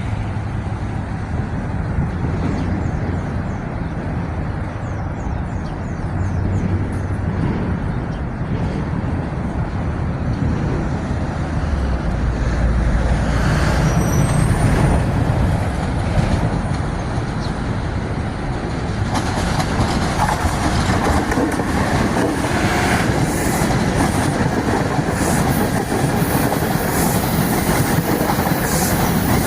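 Metro-North commuter train running on the tracks. About two-thirds of the way in it grows harsher, with a rattle and the clatter of wheels on the rail joints.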